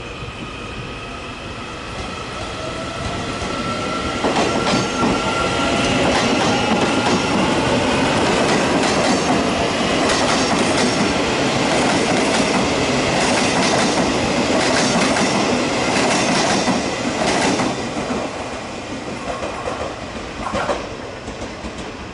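Electric multiple-unit passenger train running past close by at speed. As it nears, its whine slides down in pitch, and its wheels clack over rail joints. It grows loud about four seconds in and fades after about seventeen seconds as the last cars pass.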